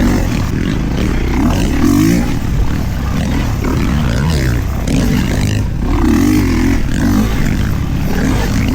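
Kawasaki KX450 motocross bike's four-stroke single-cylinder engine running hard while riding, its pitch rising and falling over and over as the throttle is opened and closed.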